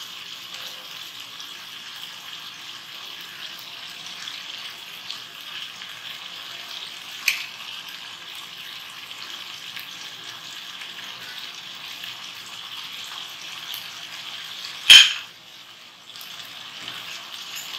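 Chicken masala sizzling steadily in a hot wok, an even hiss. A single sharp knock about 15 seconds in is the loudest sound, with a fainter click about halfway through.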